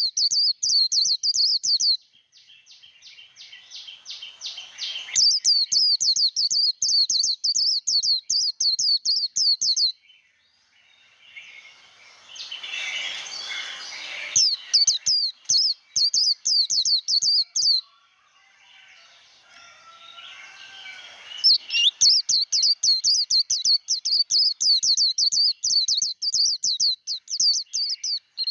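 White-eye singing its rapid 'líu' fighting song: runs of fast, sharp, high repeated notes lasting a few seconds each, four times, with softer, lower chattering between them.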